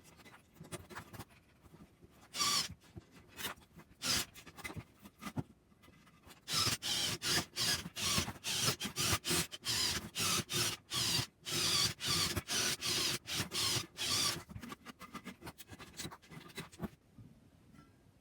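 Repeated short scraping strokes of a hand tool worked back and forth, about two to three a second in a fast run through the middle, sparser at the start and end, stopping shortly before the end.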